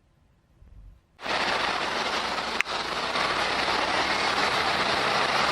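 Steady vehicle and road noise that cuts in abruptly about a second in, with a single sharp click about a second and a half later.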